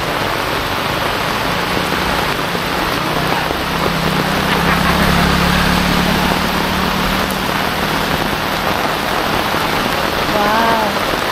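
Heavy rain falling steadily on a paved road and roadside plants. A small motorcycle engine runs past in the middle and fades away.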